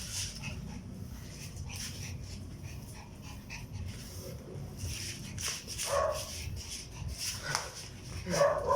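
A small dog making short whimpering, barking sounds during play, once about six seconds in and again near the end, with soft clicks and rustling in between.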